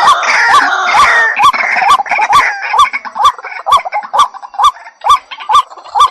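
White-breasted waterhen calling: a regular series of short, hooked notes, about two a second. A dense, harsh chattering overlies the notes for the first couple of seconds, then dies away and leaves the repeated notes alone.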